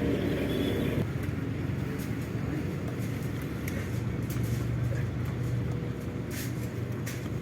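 Truck's diesel engine running steadily on the road, its note dropping about a second in, with a few short hissing bursts near the end.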